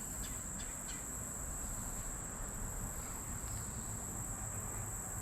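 Steady, high-pitched insect chorus holding one even note, with a few faint ticks in the first second.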